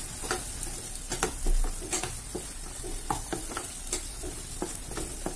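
Spice paste of ground cumin, chilli powder and turmeric frying in mustard oil in a non-stick kadai, with a steady sizzle. A spatula stirs it, making irregular scrapes and taps on the pan. The masala is being bhuna'd, fried down until the oil separates.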